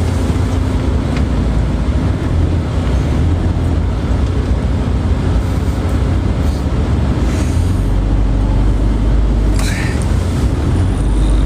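Steady low rumble of a moving vehicle heard from inside the cabin: road and engine noise, with a brief higher sound near the end.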